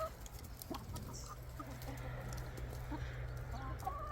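A flock of chickens clucking softly while they eat treats, with a few short clucking calls near the end. A steady low hum runs underneath.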